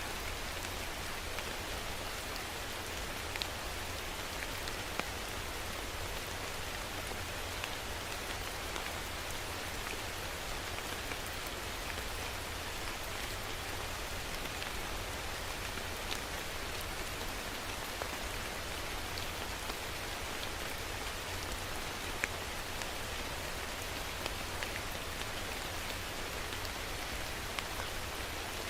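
Steady rain falling, an even hiss with occasional louder single drops ticking through it.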